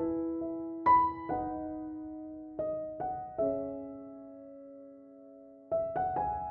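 Background piano music: slow, sparse notes and chords left to ring and fade.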